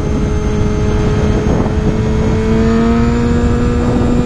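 Honda CBR250RR (MC22) inline-four engine pulling steadily at speed, its pitch climbing slowly from about halfway as the bike accelerates through the gear, under heavy wind rush on the helmet microphone.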